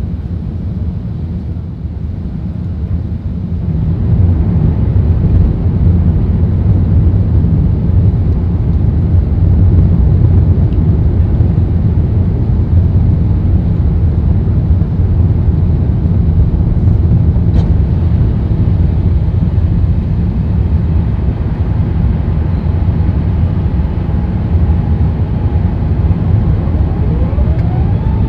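Airbus A380 heard from inside the cabin: a steady low rumble of engines and airflow that grows louder about four seconds in and then holds.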